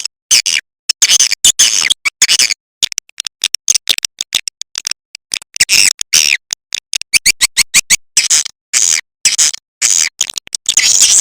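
Recorded edible-nest swiftlet calls: rapid, high twittering chirps in quick bursts broken by short sudden silences. This is a swiftlet call sound (suara panggil), a lure recording played to draw swiftlets into a nest house.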